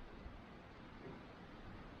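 Faint, steady hiss of a wood campfire burning low, with a soft low rumble underneath.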